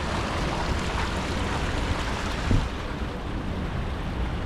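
Water fountains splashing, a steady rush of water, with a brief thump about halfway through.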